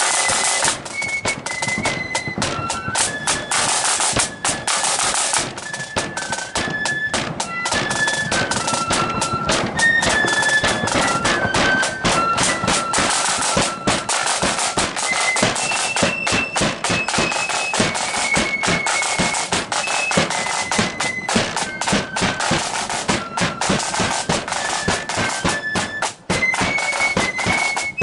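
Marching flute band playing a tune: a shrill unison melody of held, stepping notes from the flutes over continuous snare and bass drumming.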